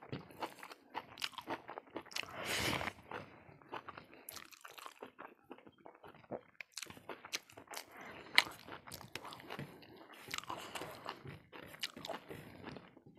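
Close-miked chewing and crunching of food eaten with the hands, in irregular bites, with fingers scraping and tapping a steel plate. One sharp click a little past eight seconds in stands out above the rest.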